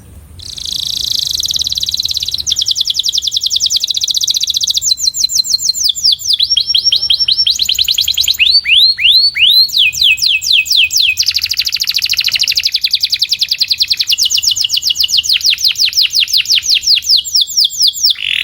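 Domestic canary singing a long continuous song of rapid trills, switching from one repeated-note phrase to the next every second or two, including a run of slower downward-sliding notes midway. This is a 'puxada' training song, played to teach young canaries to sing.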